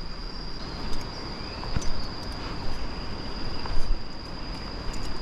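Insects keep up one steady high-pitched drone over a constant hiss. A few scattered footsteps knock on the rocky steps.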